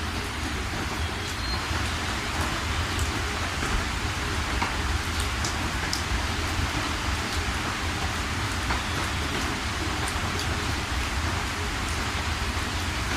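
Steady rain falling, an even hiss with scattered sharper drop ticks over a low, steady undertone.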